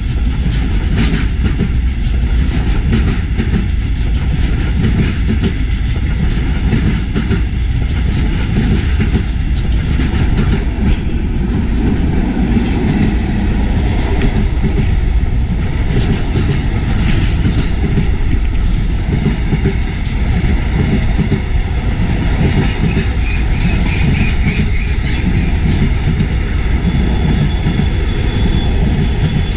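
Diesel-hauled train rolling along the rails, its wheels clicking and knocking over the rail joints, with a high wheel squeal setting in near the end.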